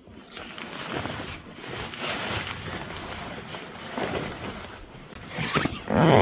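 Nylon bivy and sleeping bag rustling as they are handled and shifted, in several uneven swells.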